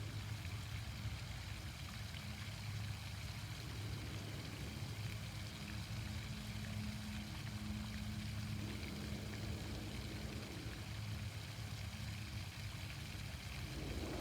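Fountain water splashing steadily, with a low steady hum underneath.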